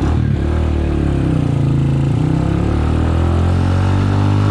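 Skygo Earl 150's single-cylinder CG150 engine, fitted with a 28mm Uma Racing VR carburetor, pulling the motorcycle along under throttle, with the pitch climbing near the end.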